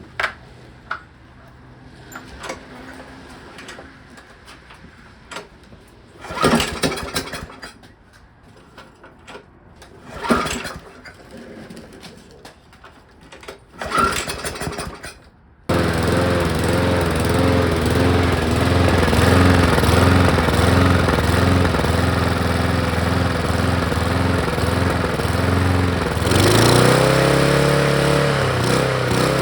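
Craftsman 5.5 HP Briggs & Stratton lawn mower engine being pull-started after a carburettor cleaning. Three pulls each give only a brief burst. About sixteen seconds in it catches and keeps running, its speed wavering up and down, typical of a mower engine surging. It speeds up briefly near the end, then slows.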